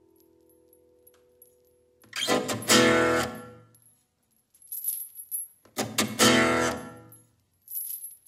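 Acoustic guitar strumming single chords in a slow indie-folk intro: three chords, each left to ring and fade before the next, with near silence between them.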